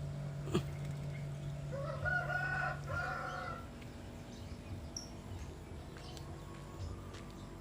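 A rooster crowing once in the background, starting about two seconds in, with a rising-and-falling call in two parts. A short click comes just before it, and a steady low hum stops about halfway through.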